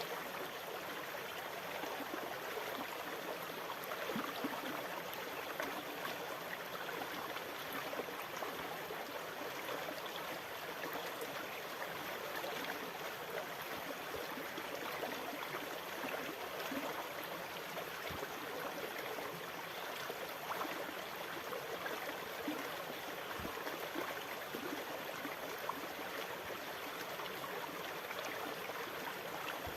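Steady rushing water, an even wash of noise with no rising or falling swells.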